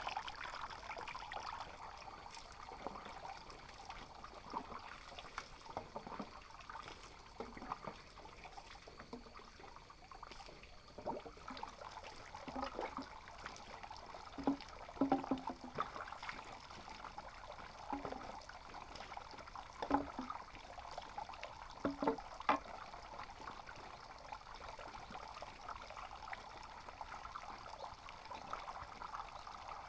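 Water trickling steadily, with a run of short knocks and taps about midway through.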